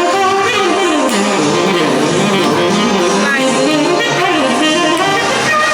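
Live jazz band playing, with a guitar-like melody line weaving up and down over the accompaniment.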